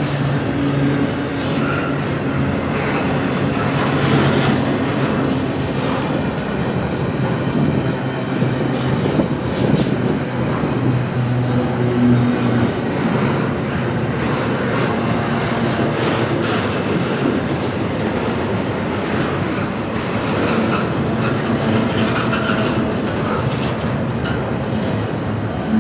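CSX freight train rolling by steadily, steel wheels clicking over the rail joints, with a low steady drone under the rumble.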